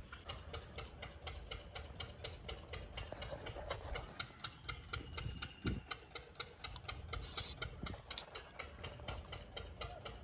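Steady, rapid ticking, about five short ticks a second, over a faint low rumble.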